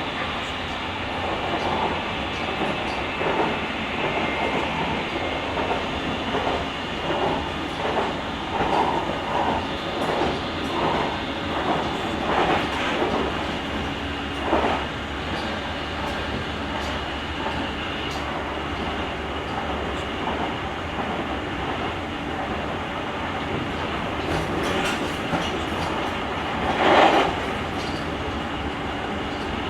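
JR Kyushu 883 series limited express train running at speed, heard from the vestibule deck: steady running noise with a high motor whine, and rhythmic clacks of the wheels over rail joints through the first half. A louder clatter comes near the end.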